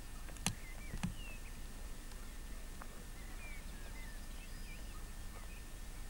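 Small birds chirping in woodland, short rising and falling calls over a steady hiss. Two sharp clicks, about half a second and a second in, are the loudest sounds.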